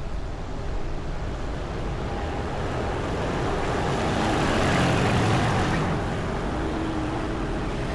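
A road vehicle passing close by: its noise rises to a peak about five seconds in and then fades.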